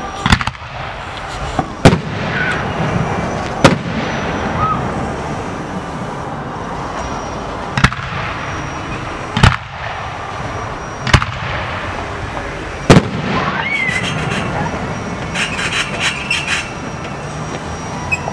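Aerial fireworks shells bursting: about seven sharp booms a second or two apart, then a run of crackling near the end.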